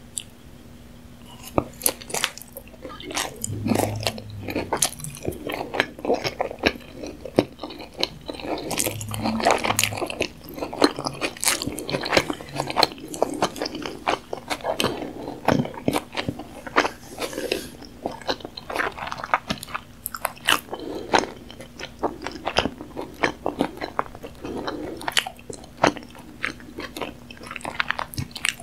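Close-miked mouth sounds of eating tuna nigiri: soft, sticky chewing with many irregular wet smacks and clicks of fish and rice, starting about a second and a half in. A faint steady hum sits underneath.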